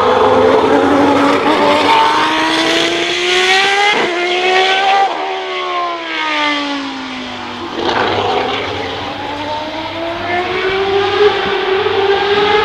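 Historic racing car engines running hard on track: the engine note climbs, falls away from about five seconds in, then climbs again from about eight seconds in.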